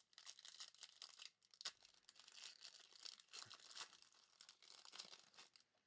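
Faint crinkling and tearing of a foil trading-card pack, a 2021 Bowman Chrome hobby pack being torn open, in a string of small crackles.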